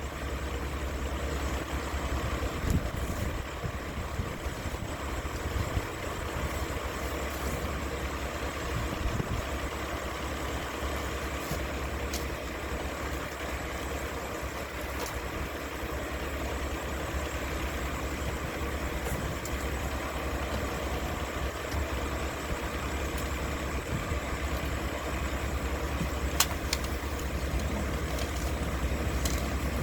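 Mack LR garbage truck's diesel engine idling steadily with a low rumble, with a few sharp metallic knocks here and there.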